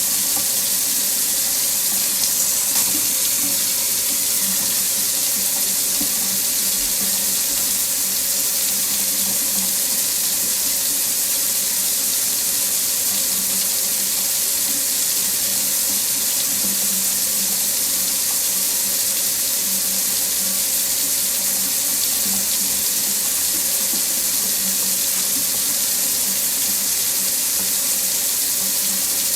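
Water tap running steadily into a sink, a constant even rush of water.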